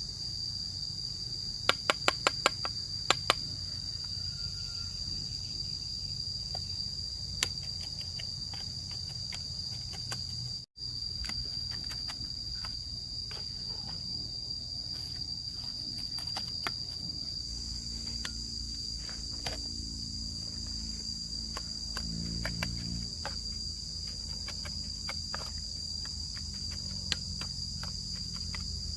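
Insects, crickets, trilling steadily in one high, unbroken tone. A quick run of about six sharp knocks comes two to three seconds in, with a few scattered taps later.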